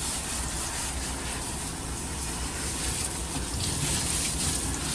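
Steady rush of water from a hand-held sprayer at a dog-wash tub, rinsing shampoo out of a dog's coat.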